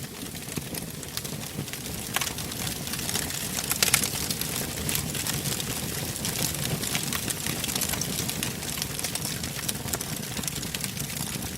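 Wood fire in a fireplace crackling and popping: irregular sharp snaps over the steady low rumble of the flames, with a louder pop about four seconds in.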